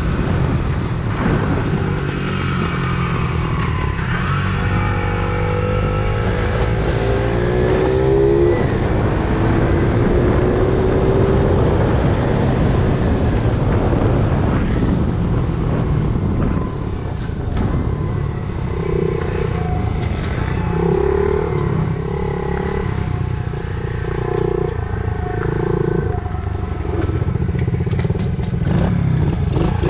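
Small 70cc motorbike engine running at speed. Its note climbs twice in the first third as it accelerates through the gears, then holds with a pulsing drone.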